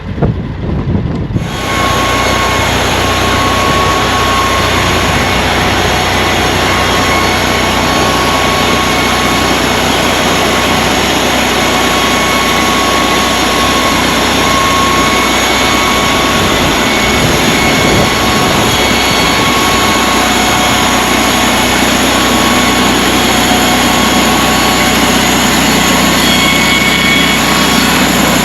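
An engine running steadily at speed. It sets in abruptly about a second and a half in, with a loud rushing hiss over a low, even hum.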